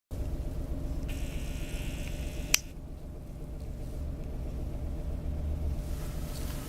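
Strong gusty wind, heard as a steady low rumble with a hiss that comes and goes. A single sharp click sounds about two and a half seconds in.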